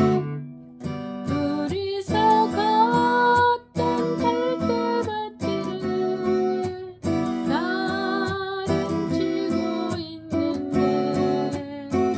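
Acoustic guitar playing a slow melody with a strummed accompaniment, some notes sliding up and held with vibrato.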